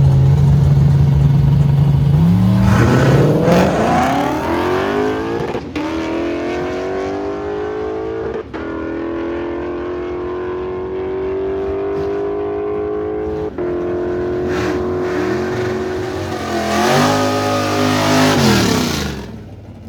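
Car engine held at a steady note, then accelerating hard about two and a half seconds in, climbing through several gear changes. Near the end the revs fall away and the sound fades.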